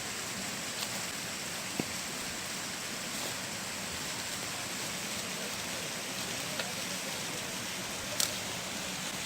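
Steady rushing of a flowing stream, with a few light clicks or knocks over it.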